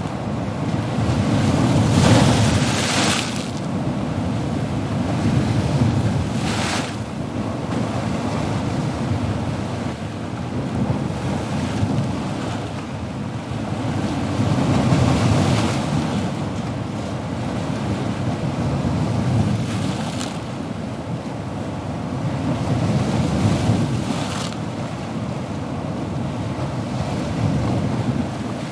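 Ocean waves washing continuously, swelling and breaking every few seconds with a low rumble beneath, the loudest break about two seconds in.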